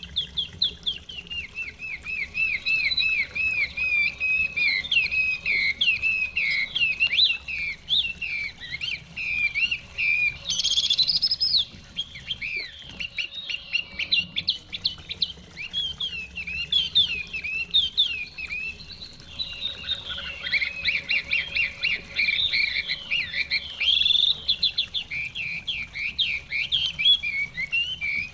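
Chinese hwamei song: continuous rapid runs of sliding, whistled notes, with a harsher, rougher burst about ten seconds in.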